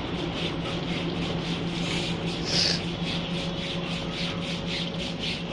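Railway locomotives running at low speed while coupling: a steady low hum under a fast, regular rubbing hiss, with one brief louder hiss about two and a half seconds in.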